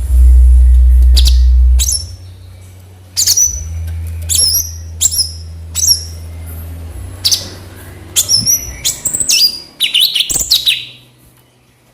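Cucak cungkok bulbul calling: a run of about a dozen short, sharp, high chirps, each a quick downward whistle, some in quick pairs and clusters, over a low steady hum during the first seven seconds or so.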